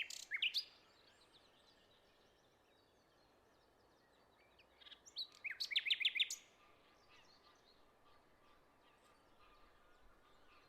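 Bird calling: a short burst of high chirps right at the start, then a quick run of rapid, sliding notes about five seconds in, with faint calls in between.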